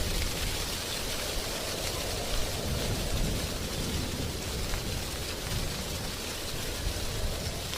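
Wind blowing through drying tree leaves: a steady rustling hiss with a low rumble underneath.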